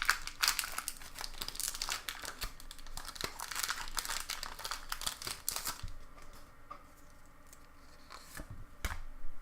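Foil Pokémon booster pack wrapper being torn open and crinkled, a dense crackling for about six seconds. It then turns quieter, with a few light clicks and a sharper tap near the end.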